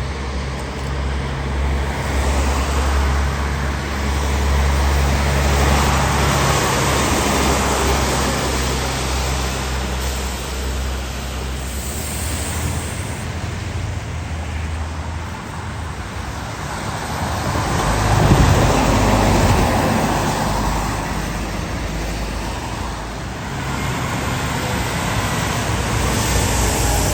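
Road traffic passing, with a steady low engine drone for roughly the first half. Vehicles swell past twice, the loudest about two-thirds of the way through.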